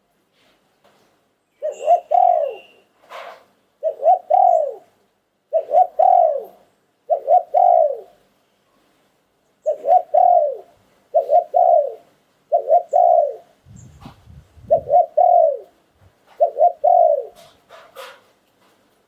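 Spotted dove cooing: a series of about ten short phrases, each a couple of quick notes ending in a longer coo that falls in pitch, repeated every second or so.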